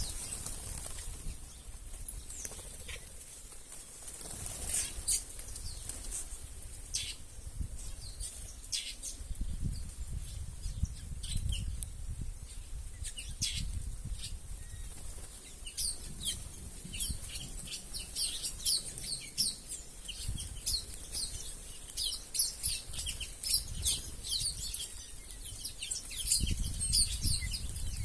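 A flock of small birds at a feeding spot, chirping with short high calls amid fluttering wings; the chirps grow much denser about halfway through.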